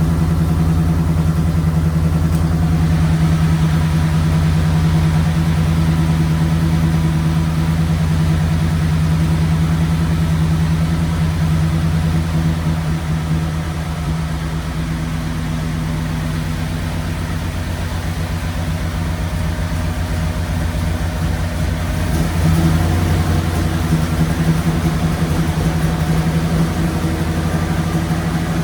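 Flathead Ford engine with Holley 94 carburetors idling steadily; it dips a little in level partway through and picks up again about 22 seconds in. It is running rich, with liquid fuel dripping from one carburetor venturi instead of spraying.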